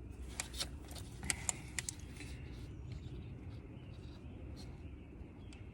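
A handful of light metallic clinks from hand tools and bolts being handled during reassembly, mostly in the first two seconds, over a low steady background rumble.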